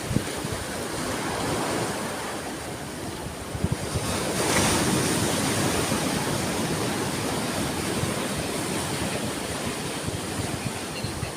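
Ocean waves washing onto a shore in a steady hiss of surf, with one wave breaking louder about four and a half seconds in.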